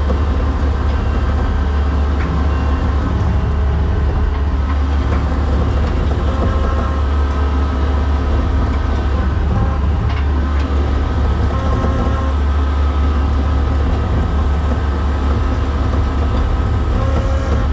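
Skid steer engine running steadily with a deep, constant rumble and faint whining tones over it, with a few light clicks.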